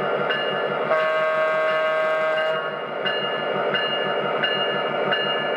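MTH RailKing Union Pacific F3 diesel's onboard sound system running: a fast low diesel-engine rumble with the locomotive bell ringing about every 0.7 s. About a second in, one horn blast lasts about a second and a half.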